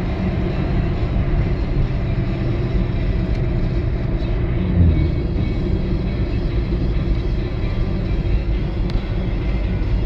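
Steady low rumble of a car driving, with one brief louder bump about halfway through.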